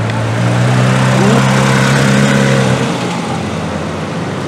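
Porsche 911 GT3 RS (991) naturally aspirated flat-six running steadily at low revs as the car rolls away slowly. The note eases off after about three seconds.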